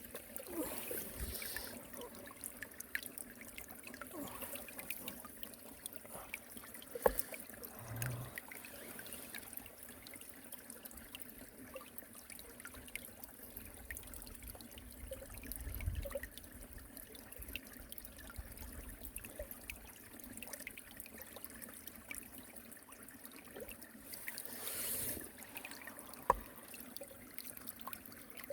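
Mountain stream water trickling and flowing steadily over a weir. Two sharp knocks stand out, one about seven seconds in and one near the end.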